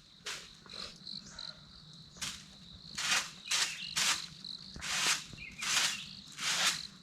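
A steady high insect drone, cricket-like, with a string of short rustling swishes, roughly one or two a second, that grow louder about three seconds in.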